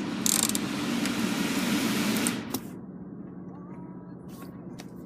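Car climate-control blower fan rushing air through the dashboard vents after a click, then cutting off abruptly about two and a half seconds in, leaving a faint low hum and a few soft clicks of the controls.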